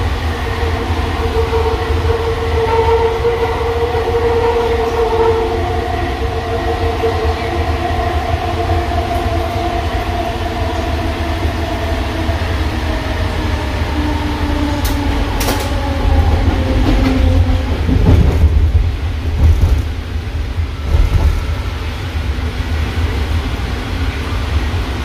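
JFK AirTrain car running, heard from inside the cabin: a steady low rumble with an electric motor whine that slowly falls in pitch and fades out, then a few knocks from the car about 18 seconds in.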